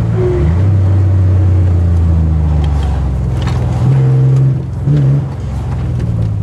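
Nissan 300ZX (Z31) V6 engine under load during an autocross run, heard from inside the cabin. It holds a steady pitch, then revs higher for about half a second around four seconds in before easing off again.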